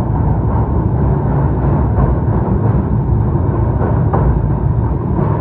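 Loud wind buffeting the microphone on a moving train, over the low rumble of the train running along the track.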